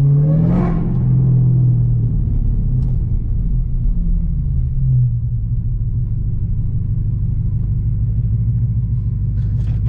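A car engine running at low speed. It rises briefly in pitch in the first second, then holds a steady deep note.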